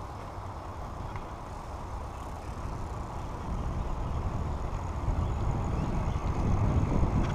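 Low rumbling wind and rolling noise from a moving bicycle ride, mostly wind buffeting the microphone. It grows steadily louder from about halfway through.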